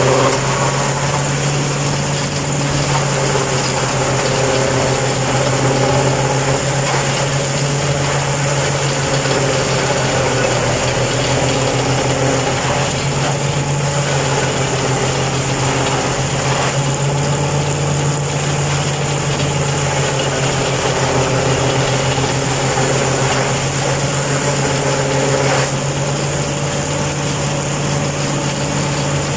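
Tractor engine running at a steady speed, driving a PTO-powered forage harvester, with an even mechanical whir over the low engine tone.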